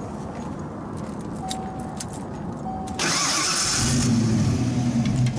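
1986 Ford Mustang GT's fuel-injected 5.0 L V8 being started. After two short beeps, its high-torque starter cranks briefly about three seconds in, then the engine catches and settles into a steady idle through its Flowmaster exhaust.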